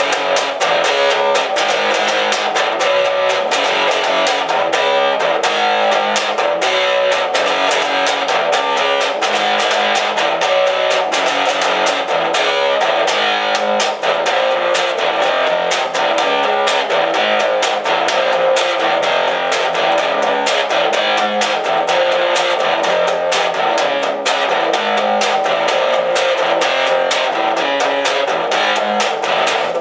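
Instrumental break of a rock song: guitar-led band music with a steady beat and no singing.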